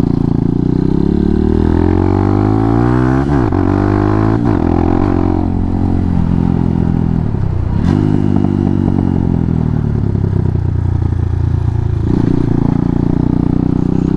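Hawk 250 dual-sport's single-cylinder engine under way, with an aftermarket exhaust: revs climb and drop sharply at quick upshifts about three and four and a half seconds in, ease off, build again to another shift near the middle, then run fairly steady.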